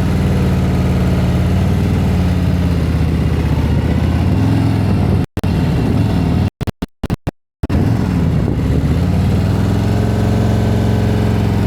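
Motorcycle engine running at low revs at walking-pace speed through a slow cone weave, its note dipping and rising gently as throttle and clutch are worked in the friction zone. The sound cuts out completely for a moment about halfway through, then several more times in quick succession.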